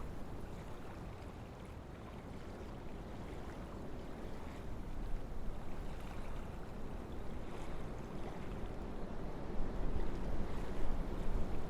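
Wind blowing through forest trees: a steady rushing that swells in gusts toward the end.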